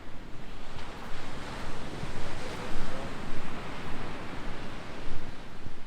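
Surf washing on the beach mixed with wind buffeting the microphone: a steady rushing noise that swells and falls.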